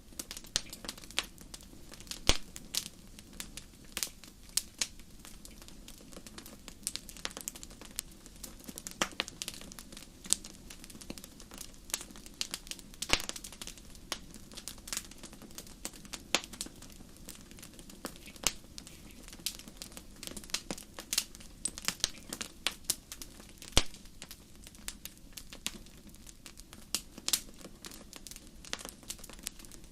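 Wood fire crackling: irregular sharp pops and snaps, a few each second and of uneven loudness, over a steady low rumble from the burning.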